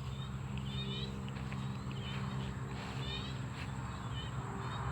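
Evening chorus in a rice paddy: a steady high insect drone and a low steady hum, with repeated short chirping calls from small frogs and birds throughout.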